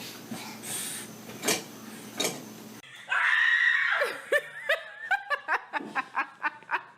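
Faint clicks and clatter, then, about three seconds in, high-pitched laughter: a long squeal followed by a quick run of short ha-ha bursts that fade near the end.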